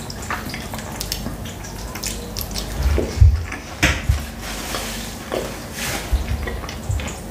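Close-miked wet chewing and mouth sounds of someone eating khinkali dumplings: irregular soft clicks and smacks, with a few louder ones about three to four seconds in.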